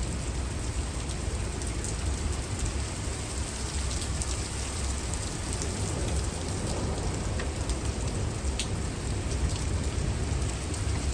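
Heavy thunderstorm rain falling steadily, with a steady low rumble underneath and many single drops ticking on a hard surface.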